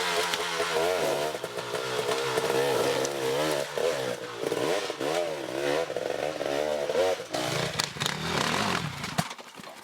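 Off-road motorcycle engine running, its revs rising and falling, until it cuts off suddenly about nine seconds in.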